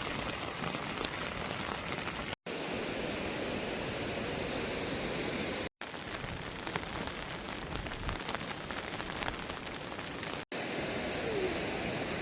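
Heavy rain falling steadily, an even dense hiss. It drops out to silence three times for a split second.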